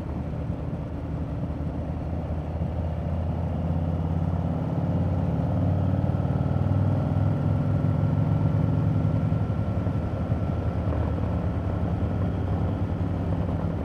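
Harley-Davidson motorcycle's V-twin engine running in third gear, a steady low rumble that grows a little louder a few seconds in and eases off again near the end.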